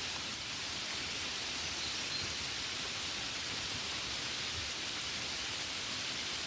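Gentle rain falling steadily: an even, unbroken hiss with no distinct drops or taps standing out.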